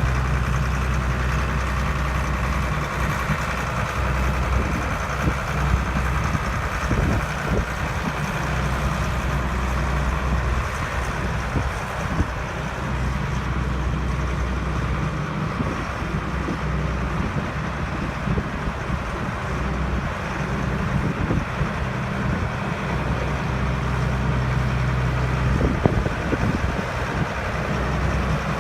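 Diesel engine of a 2003 AGCO Challenger MT635 tractor idling steadily. There is a single sharp knock near the end.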